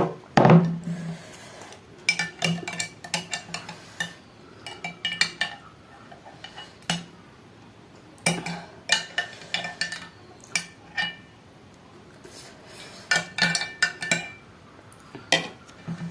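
Spoon clinking and tapping against a dish in short clusters of taps with brief pauses between, as pani puri are filled.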